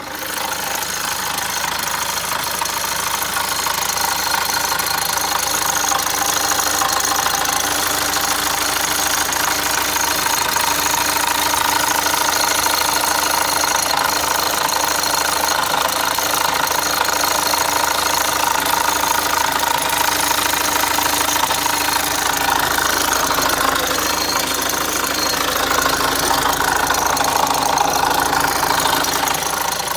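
Opel Zafira Tourer 1.6 CDTI four-cylinder turbodiesel engine running with a steady rattling, knocking noise. The owner suspects it may be the timing chain (chain or guide rail) and says it now happens every time the engine is started.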